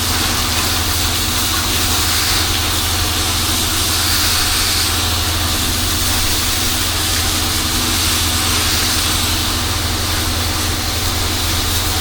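Pressure washer running steadily: a constant engine hum under the loud hiss of water spraying from the wand, shooting cleaning solution up onto a dirty gutter.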